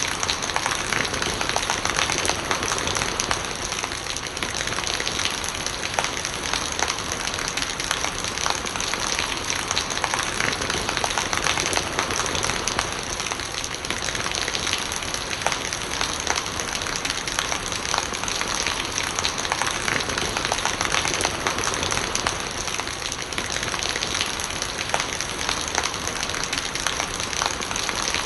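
Steady rain with many separate drop hits, and rainwater gurgling as it runs off.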